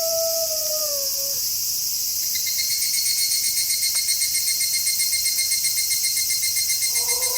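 A wolf howl holds its note, then drops in pitch and ends about a second and a half in, over a constant high chorus of chirping insects. From about two seconds a fast pulsing insect trill joins in, and near the end another, lower howl begins.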